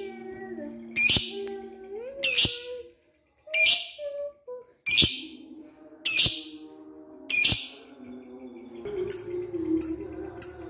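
Lovebird giving loud, shrill calls about every second and a half, six in a row, then three shorter, quicker chirps near the end. Softer, lower whistled tones run underneath.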